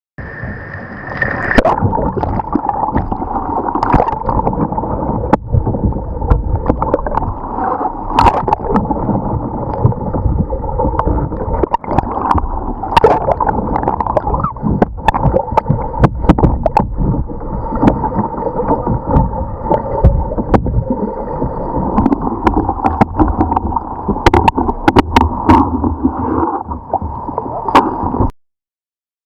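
Water gurgling and splashing around a whitewater kayak during rolling practice, with frequent sharp knocks, cutting off suddenly near the end.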